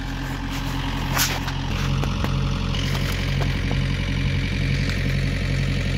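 Farm tractor engine running steadily at low revs, with a deep, even hum.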